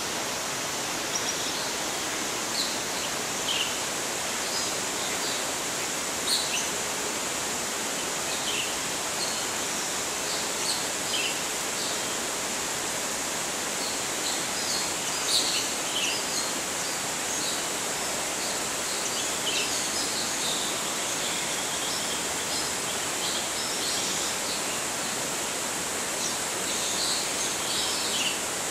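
Short, high bird chirps scattered every second or so over a steady outdoor hiss.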